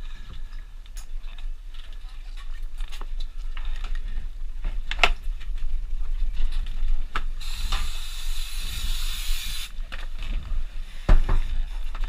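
Scuba gear letting out air in one hissing burst about two seconds long, starting and stopping suddenly, with scattered knocks and clicks and a constant low rumble.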